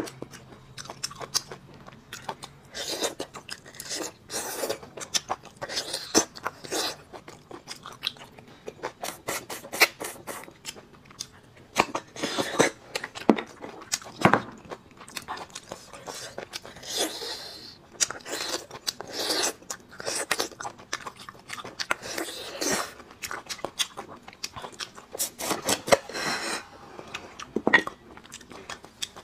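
Close-miked eating sounds: irregular wet smacks, clicks and small crunches of a mouth chewing bone marrow.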